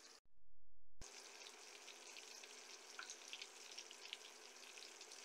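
Battered oyster mushrooms frying in hot oil in a pan: a faint steady sizzle with small scattered crackles, coming in about a second in after a brief dropout.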